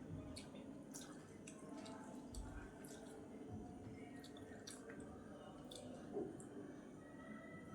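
Faint, wet chewing and mouth clicks of someone eating rice with vegetable curry, many short sharp clicks over a low background.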